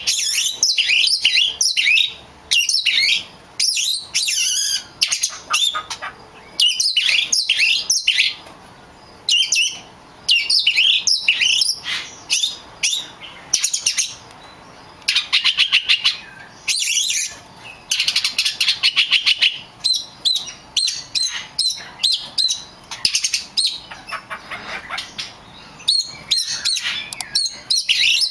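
Oriental magpie-robin singing: a loud, rapid run of varied whistled and chattering phrases in bursts of a second or two with short pauses between, including passages of fast, evenly repeated rattling notes.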